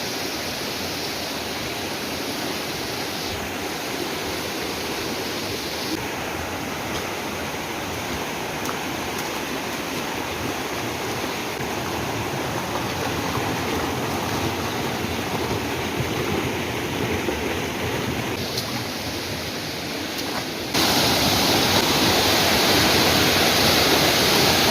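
Rushing water of a mountain stream or waterfall, a steady hiss. It turns suddenly louder about 21 seconds in.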